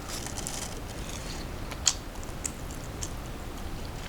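Eating sounds: a few sharp, crisp clicks of a snack being bitten or chewed, the loudest about two seconds in, over a low steady hum.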